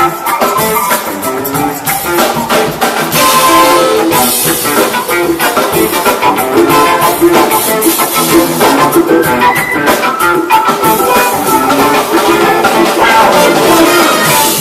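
A large band playing live: a brass horn section, electric guitar and drum kit all playing together, loud and steady.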